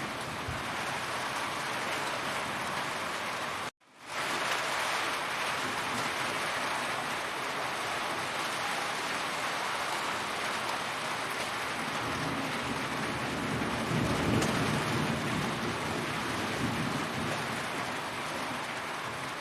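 Heavy rain falling steadily, an even hiss of raindrops on surfaces. It cuts out for a split second about four seconds in, then resumes.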